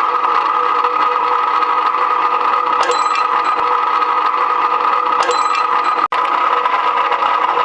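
Electric rebar machine running steadily with a constant whine from its motor and gears. Two brief metallic clinks with a ringing tail come about three and five seconds in.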